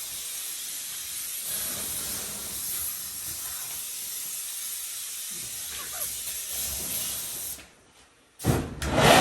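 A steady hiss that cuts off about seven and a half seconds in, followed after a short silence by a sudden loud noise near the end.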